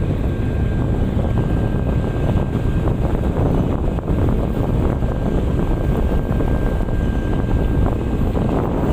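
Steady low rumble of a tug boat's engines, with wind buffeting the microphone. A faint thin whine comes and goes above the rumble.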